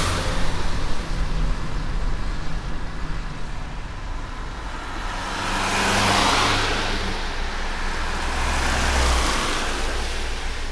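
A car driving in light rain: a steady low road rumble under an even hiss of rain and wet tyres. The hiss swells up twice, about halfway through and again near the end.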